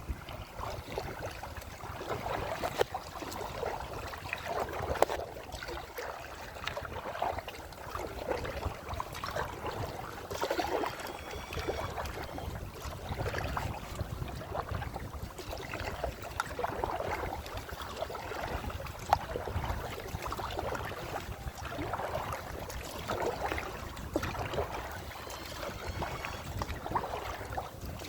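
Kayak paddle strokes splashing in the water about every two seconds, with wind rumbling on the microphone.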